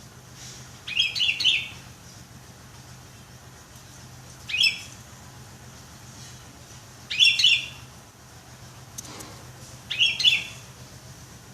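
Sooty-headed bulbul (kutilang) singing four short phrases of a few quick, clear notes, one about every three seconds.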